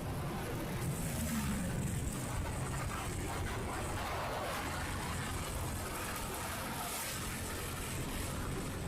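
Steady road noise from a motorcycle ride: the engine running, with a brief shift in engine pitch about a second in.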